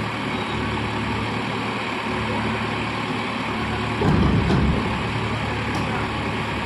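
Heavy diesel engine running steadily, with a brief louder low surge about four seconds in.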